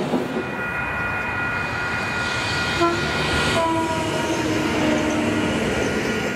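Frecciarossa high-speed electric train running past at speed: a steady rush of wheel and air noise with a thin high whine. About three seconds in, a horn sounds and holds for a couple of seconds, its pitch sagging slightly.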